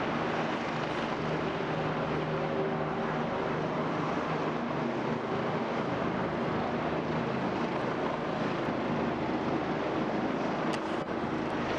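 Helicopters flying low on approach: a steady, even drone of rotors and turbine engines with a faint low hum. A few faint clicks come near the end.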